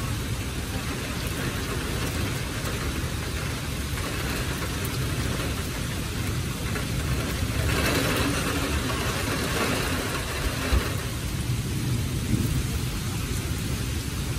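Heavy rain falling steadily during a thunderstorm, with a low rumble underneath. The rain swells louder for a few seconds in the middle, and there are a couple of brief sharp knocks near the end.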